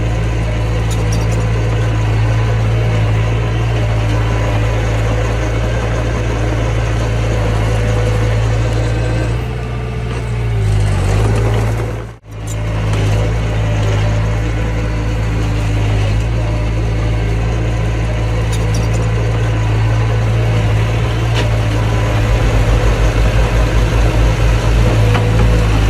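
Diesel engine of heavy earthmoving equipment running steadily, its pitch sagging briefly about ten seconds in as if under load. The sound cuts out for an instant about two seconds later, then comes back. Near the end the engine takes on a regular low throbbing pulse.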